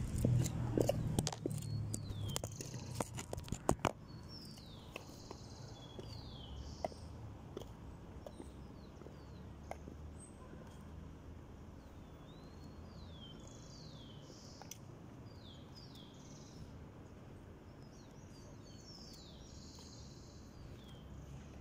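Birds chirping on and off, many short curved calls, over a steady low outdoor rumble. A cluster of clicks and knocks in the first four seconds, as of the phone being handled and set in place.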